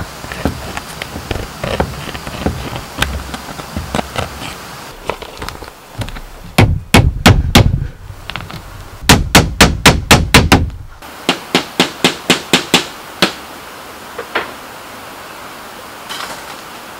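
Hammering on bamboo. Scattered knocks give way to three quick runs of hammer blows, about four or five strikes a second, that stop a little past the middle.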